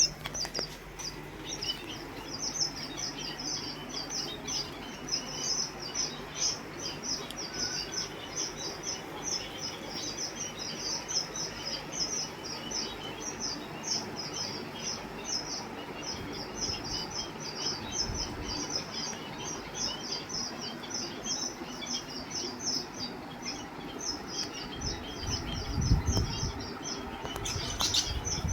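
Caged pet-shop birds chirping continuously, many short high chirps about three or four a second. A brief low bump or rumble comes near the end.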